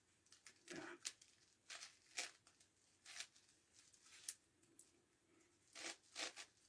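Plastic layers of a 9x9x9 Rubik's Cube being turned by hand: a faint, irregular string of short clicking scrapes, about eight turns, with pauses between them.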